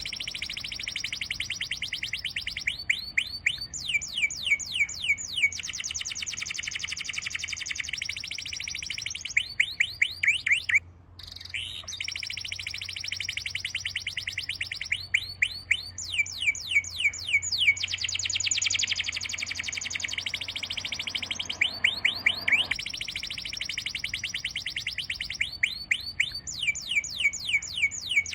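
Songbird singing phrases of rapid, downward-slurred whistled notes, repeated every few seconds over a steady high-pitched background chorus, with a brief dropout about eleven seconds in.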